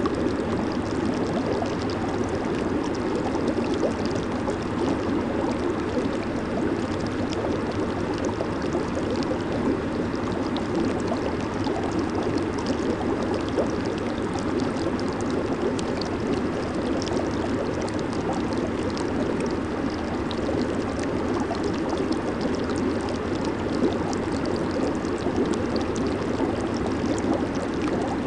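Jacuzzi hot tub running: jets and air bubbles churning the water in a steady, even bubbling rush, with a faint low hum from the pump beneath.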